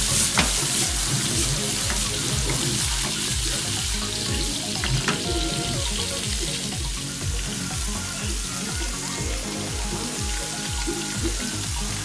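Sliced ampalaya (bitter melon) and tomato frying in oil in a pan, a steady sizzle that eases off a little, under background music with a steady beat.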